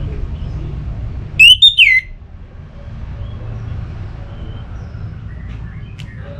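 Orange-headed thrush giving a harsh call, three quick loud notes each sliding down in pitch, about a second and a half in, over a steady low rumble.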